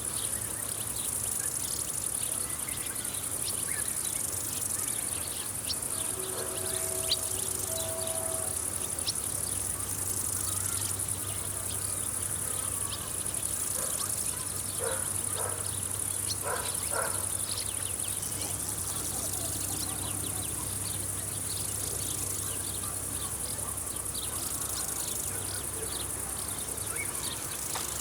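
Chirring insects of a summer field, as grasshoppers and crickets make, forming a steady high-pitched drone that swells and eases every few seconds. A few short, fainter calls come through about halfway in, over a low steady hum.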